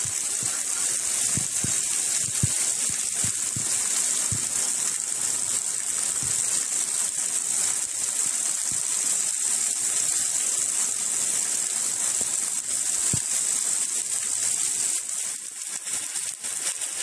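Heavy rain falling in a steady hiss, with water gushing from a roof drain spout onto the ground. Near the end, single drops splash close by into a puddle.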